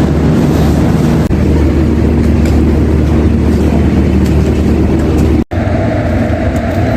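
Steady low drone of a train's engine running at a station platform. It is cut off abruptly about five and a half seconds in, and a different steady noise with a faint hum follows.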